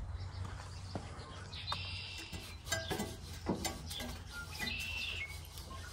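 Small birds chirping several times over a low steady rumble, with a few light clicks and knocks.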